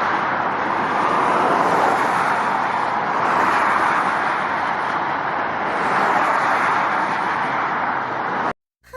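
Steady road traffic noise, a rushing of tyres and engines that swells and eases slowly, and cuts off abruptly near the end.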